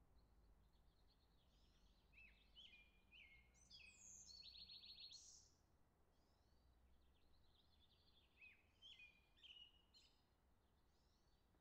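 Near silence with faint bird chirps: a few short calls and a brief trill in the first half, and a few more chirps a little past the middle.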